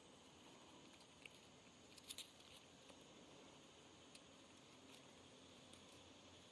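Near silence: faint background hiss with a few faint short clicks, a small cluster of them about two seconds in.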